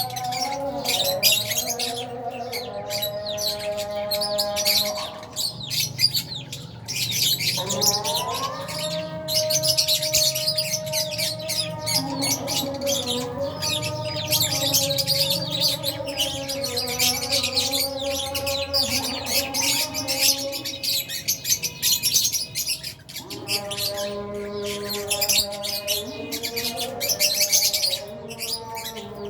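A colony of lovebirds, albino and Fisher's, chirping and chattering constantly in many overlapping short calls. Beneath the calls run long held notes of background music that change every few seconds.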